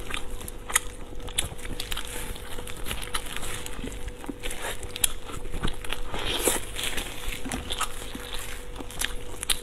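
Close-up eating sounds: wet chewing and lip smacks on sticky glazed pork ribs, with the crinkle of disposable plastic gloves as meat is pulled from the bone, in many short clicks and crackles.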